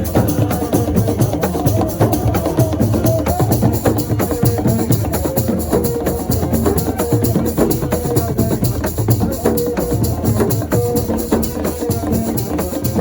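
Assiko percussion music: fast, dense drumming with sharp wood-block-like clicks, and a wavering melody line over it.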